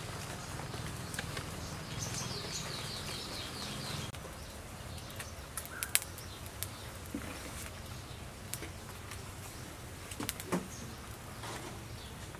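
Birds calling, with a quick run of high chirps about two seconds in, over a low steady hum; a few sharp clicks come around the middle and again near the end.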